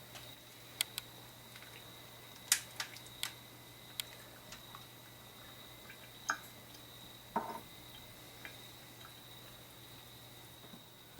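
A dozen or so light, sharp clicks and taps at irregular intervals, the loudest about two and a half seconds in, from glass jars and their contents being handled during pickle packing. A faint steady hum lies under them.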